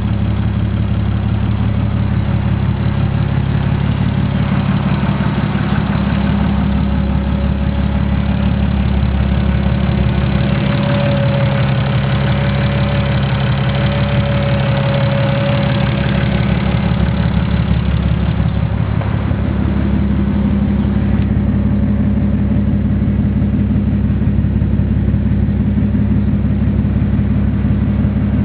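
Nissan RB25DET turbocharged inline-six idling steadily on its first start-up after being fitted to an S13. A thin, faint whine comes in over the idle for several seconds in the middle.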